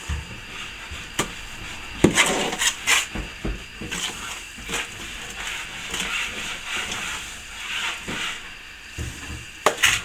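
Plastering trowel working wet plaster: scraping strokes with a few sharp metal clicks and knocks, the loudest about two seconds in and near the end.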